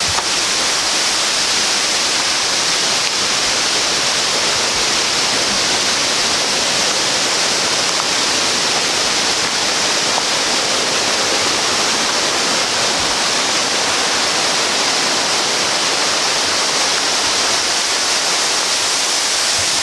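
Rushing water of a fast mountain creek, a steady unbroken rush.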